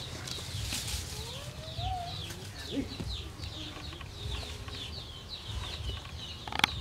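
Small birds peeping in a steady run of short, high, falling chirps, three or four a second, with one sharp click near the end.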